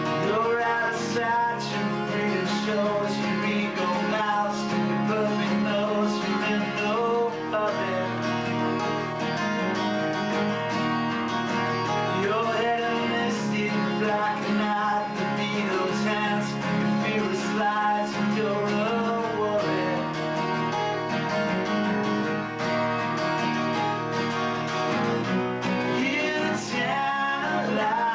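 Acoustic guitar playing a song at a rehearsal, strummed and picked without a break, picked up by a basic VHS camcorder microphone.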